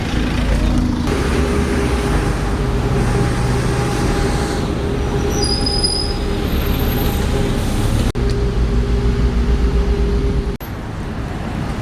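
A vehicle running with a steady low rumble and hum. Short high-pitched squeals come about five to seven seconds in. The sound breaks off abruptly twice near the end.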